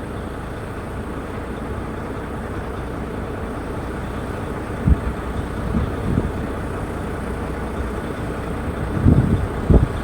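Steady outdoor background hum of distant city traffic, with a few short low thumps on the microphone about halfway through and a cluster near the end.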